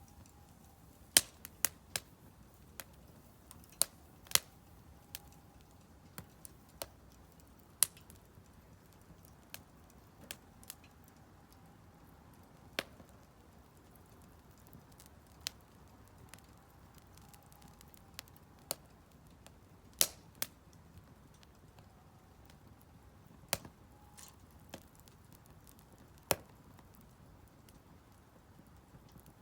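Split firewood burning in a Solo Stove Campfire fire pit, crackling with irregular sharp pops, some much louder than others, over a low steady background.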